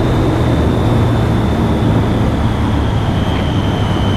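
Triumph Street Triple R's three-cylinder engine running at a steady cruise on a downhill run, mixed with wind and road noise rushing over the bike-mounted microphone.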